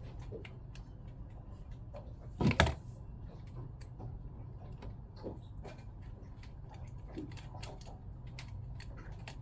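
Small clicks and taps of hands handling pump parts and screws, with one louder clunk about two and a half seconds in, over a steady low hum.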